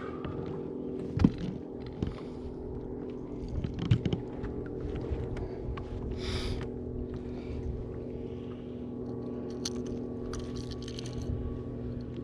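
Steady hum of a small electric motor on a bass boat, with knocks and handling noises on top: sharp knocks about a second in and around four seconds, and a short hiss or splash about six seconds in.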